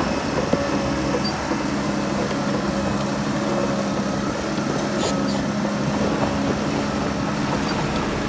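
Heavy diesel engine of earthmoving machinery running steadily, with a brief high metallic click about five seconds in.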